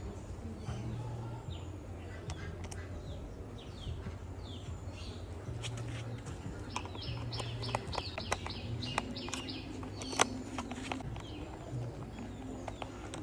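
Light clicks and taps as small screws are driven into a plastic toy truck body. A run of bird chirps comes about seven to nine seconds in, and a low hum comes and goes underneath.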